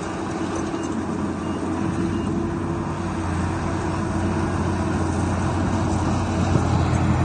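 Heavy diesel engine of earthmoving machinery running steadily, with a strong low drone.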